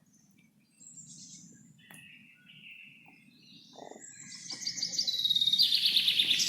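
Forest birdsong: a few scattered high chirps, then from about four seconds in a bird's rapid, loud trill of quickly repeated notes that builds toward the end, over a faint low background rumble.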